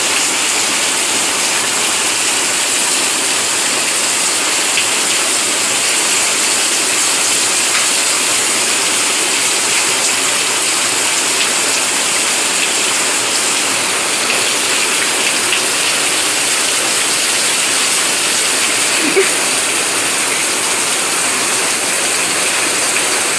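Steady, heavy rain falling, an even hiss of drops with no let-up.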